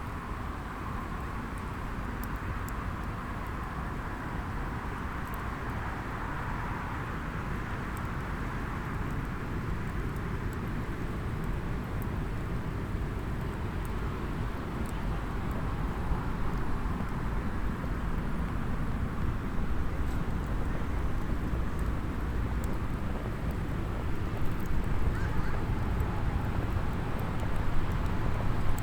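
Small wood fire in a SOTO mini hexagonal fire pit crackling faintly with sparse light pops, over a steady low outdoor rumble that grows louder toward the end.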